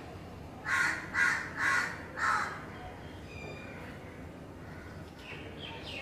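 A bird giving four harsh, rasping calls in quick succession about a second in, followed later by a few faint, thin bird notes.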